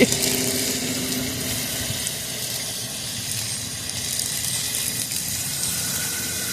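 Water spraying onto a burning fire in a small barbecue pit, a steady hiss of spray and sizzle.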